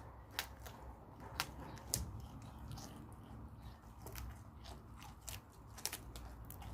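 Goat kids biting and chewing food, with irregular crisp crunches and clicks.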